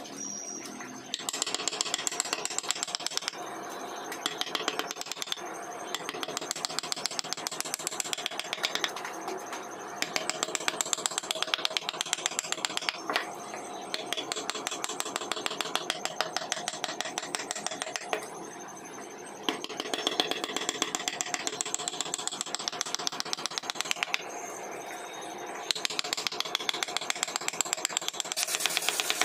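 Hand carving in wood: rapid, evenly spaced taps of a carving tool, in runs of several seconds with short pauses between.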